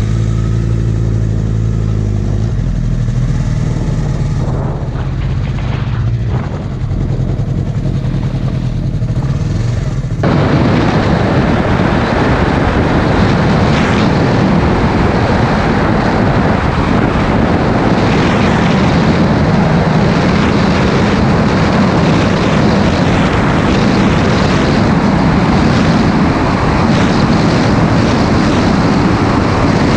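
Motorcycle engine idling steadily for about ten seconds. Then the bike pulls away and loud, steady wind rush on the microphone buries the engine for the rest of the ride.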